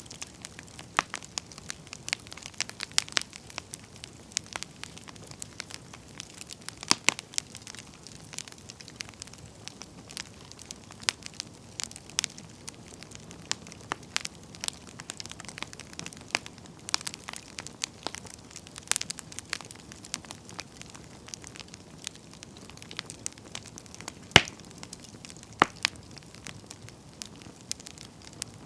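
Wood campfire burning: steady soft hiss with frequent irregular crackles and pops from the firewood, one sharper pop about 24 seconds in.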